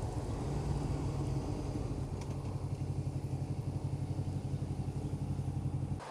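Motorcycle engine running at low revs, a steady low note with a quick, even pulsing beat that grows more marked in the second half.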